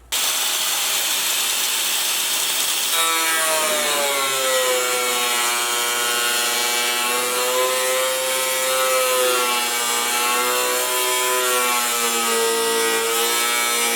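Electric drill driving a hole saw through sheet metal. It starts as a steady grinding cut, and from about three seconds in a whining tone rises and sags as the load on the cutter changes.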